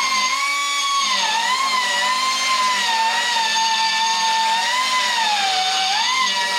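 Angle grinder running against cast iron, its motor whine rising and falling gently in pitch as the pressure on the disc changes. This is grinding the break surfaces clean ahead of welding.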